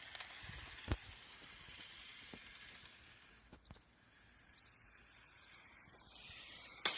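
Radio-controlled toy car driving on the road: a soft hiss that swells, fades and swells again as it goes, with a few clicks and a burst of loud clattering clicks near the end.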